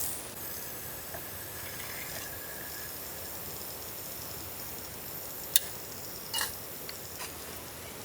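Steady hiss of falling rain, with a few short sharp clicks or taps about five and a half and six and a half seconds in.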